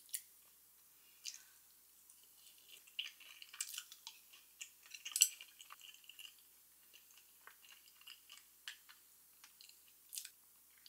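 Crunchy chewing of crispy fried potato chicken, with scattered light clicks and crackles; the loudest crunch comes about five seconds in.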